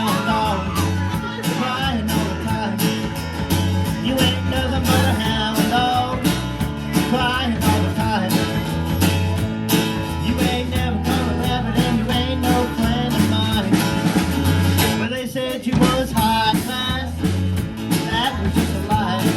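A live band playing a guitar-led number in a country, blues and rock-and-roll vein. A bending guitar line runs over a pulsing bass line and a steady drumbeat.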